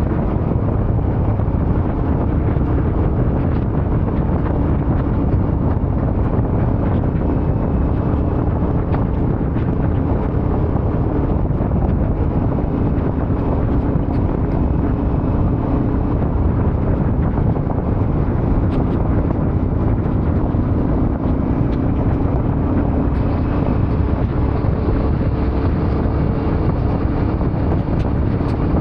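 Yamaha Ténéré 700 parallel-twin engine running at a steady speed while riding, under heavy wind noise on the microphone.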